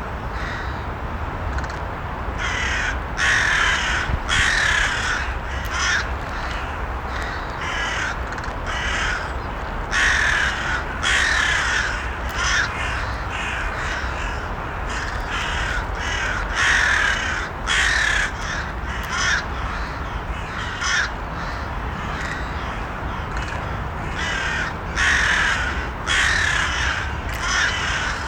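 Crows cawing over and over, harsh calls coming in short runs of several caws, over a steady low rumble.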